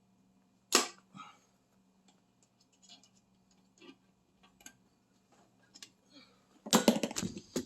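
Hand tools clinking and knocking against metal during engine removal work: a single sharp click just under a second in, a few faint ticks, then a short burst of clattering near the end.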